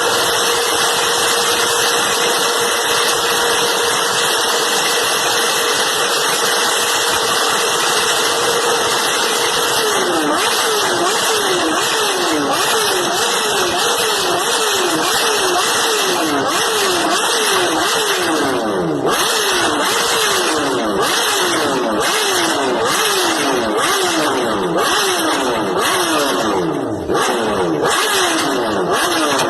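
Kawasaki motorcycle engine held at a steady high rev for about ten seconds, then revved in quick repeated throttle blips, each a sharp rise and fall in pitch, about one and a half a second.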